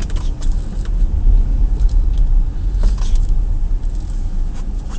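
Chevrolet Tahoe driving through deep snow in two-wheel drive, heard from inside the cab: a steady low rumble of engine and tyres, with scattered light clicks and knocks.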